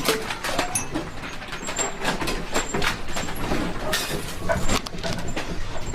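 Objects and the building rattling and clattering without a break as the ground shakes in a major earthquake, a dense run of quick knocks and rattles.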